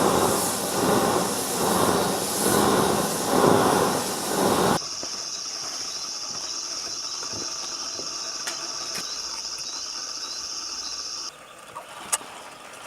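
Waste-oil-fired bronze-melting furnace burning with a loud rushing hiss that swells and fades about once a second, cut off suddenly about five seconds in. A quieter background with a steady thin high-pitched whine follows, ending shortly before a single sharp click near the end.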